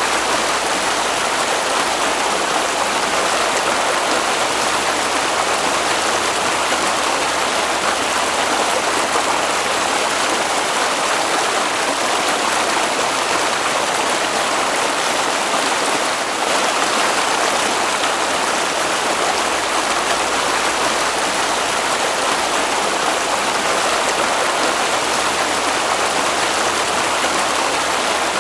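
Flowing water of a stream, a steady, even rush.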